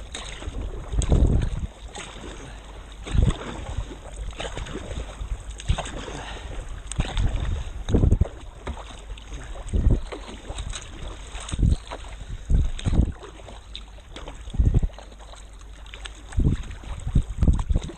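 Seawater lapping and slapping against a kayak, with low thumps every second or two over a steady wash of water, and wind rumbling on the microphone.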